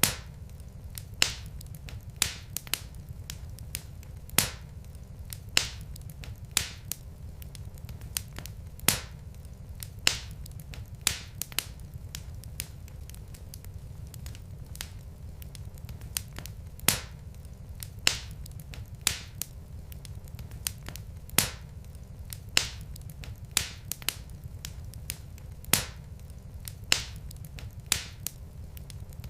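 Wood fire burning in a fireplace, crackling with sharp pops at irregular intervals, roughly one or two a second, over a steady low rumble.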